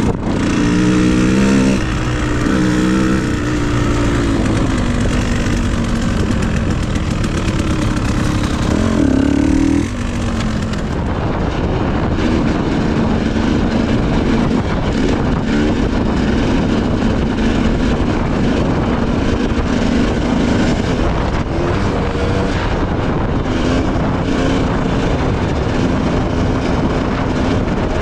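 Dirt bike engine running under load, its pitch rising and falling as the rider opens and closes the throttle. About ten seconds in, the sound changes abruptly to a steadier engine note over a rushing noise.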